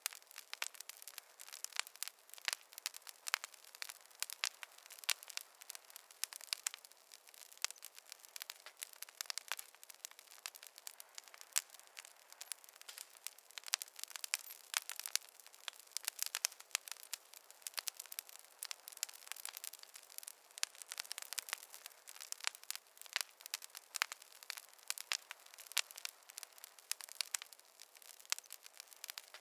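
Campfire crackling: a steady stream of irregular sharp pops and snaps from burning wood.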